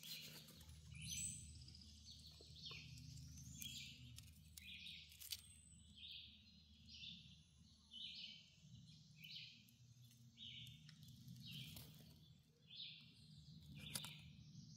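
Faint outdoor ambience: a bird's short chirps repeated about twice a second over a low steady hum, with a few light knocks.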